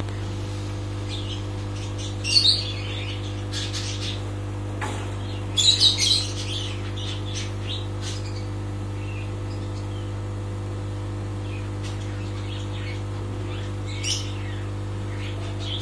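Birds chirping in short high-pitched bursts, loudest around six seconds in, with single calls about two seconds in and near the end, over a steady low hum.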